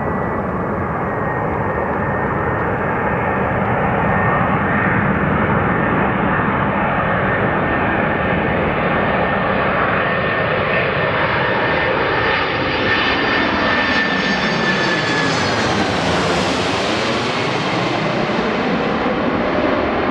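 Boeing 747-400F's four turbofan engines roaring as the freighter passes close by while landing. The roar grows brighter to a peak about three-quarters of the way through, then eases. A high fan whine drops slightly in pitch as the aircraft goes by.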